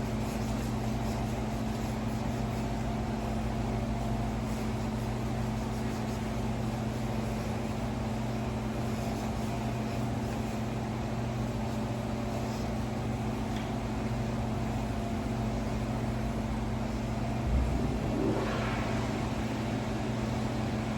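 Steady low mechanical hum of a machine running at a constant pitch, with a soft knock and faint rustling near the end.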